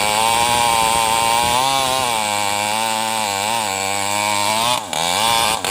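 New West 588 two-stroke chainsaw running at high revs while cutting into a mahogany tree. The engine speed wavers under load, dips briefly about five seconds in, then picks up again.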